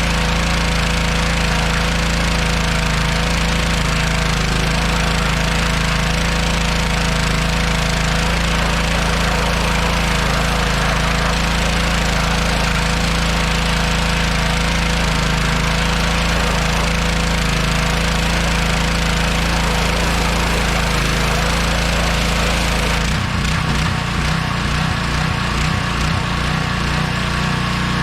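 A 1986 Ford F250's 351 Windsor V8 running steadily. About twenty-three seconds in, the sound changes and the engine settles into a slower, pulsing idle.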